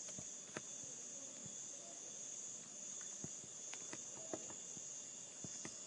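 Faint, steady high-pitched background chirring with a few soft scattered taps.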